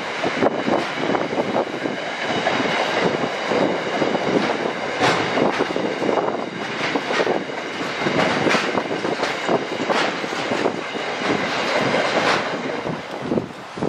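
Freight train wagons rolling past, their wheels clattering over rail joints, with a steady high metallic whine under the clatter.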